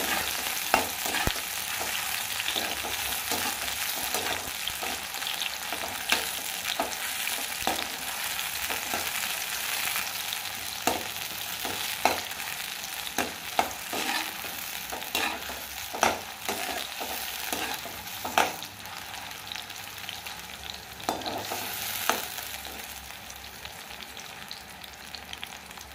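Sliced button mushrooms sizzling as they fry in very hot oil in a kadai with the gas already switched off, while a perforated nylon skimmer stirs them and knocks and scrapes against the pan now and then. The sizzle eases slightly toward the end.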